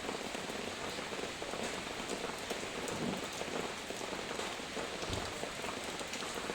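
Heavy rain falling steadily, a continuous hiss with the patter of many small drops hitting a surface.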